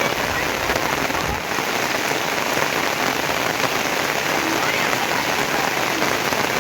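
Heavy rain falling steadily, a dense even hiss of drops striking surfaces with no let-up.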